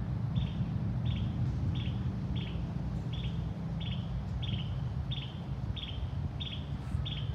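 A bird repeating one short, falling chirp at an even pace, about three every two seconds, over a steady low rumble.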